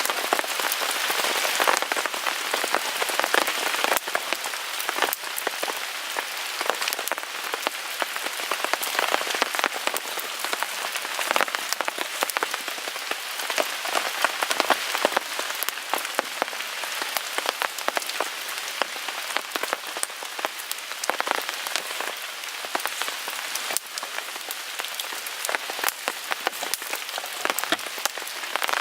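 Steady rain pattering on a tarp, with many sharp irregular clicks and pops from drops and a small wood fire crackling.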